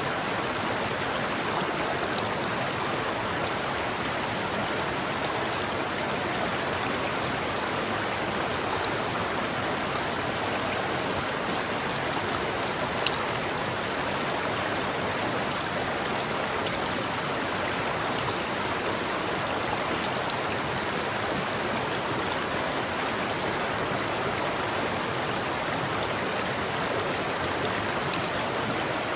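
River water flowing steadily in an even, unbroken rush, with a couple of faint brief ticks from droplets or splashes.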